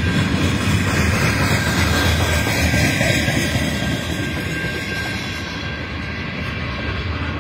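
Freight train cars, hoppers and tank cars, rolling past close by: a steady, loud rumble of steel wheels on the rails.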